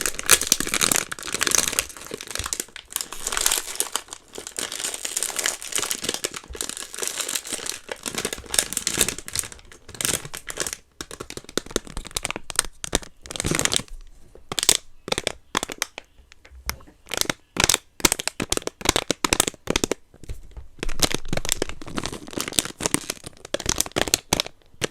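Blind-box packaging crinkling and rustling as it is handled and unwrapped, with many sharp crackles and clicks. There is a quieter, sparser stretch about halfway through.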